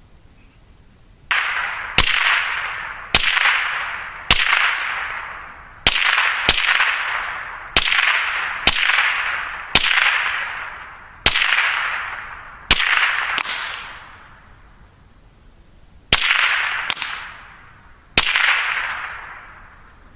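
Rimfire rifle fired in rapid succession, about fifteen shots at uneven intervals with a short pause near the end. Each shot trails off over about a second.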